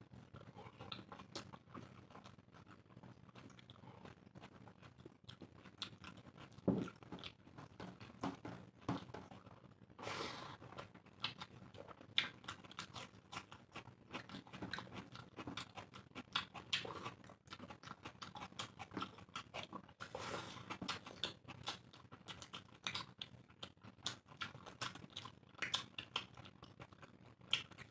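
Two people chewing mouthfuls of chicken curry and rice eaten by hand, with many short, irregular mouth clicks.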